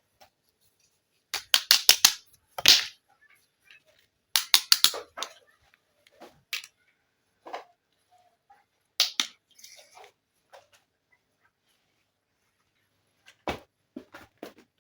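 Small plastic toy pieces clicking and clattering as they are handled and set down, in short runs of quick sharp clicks with pauses between.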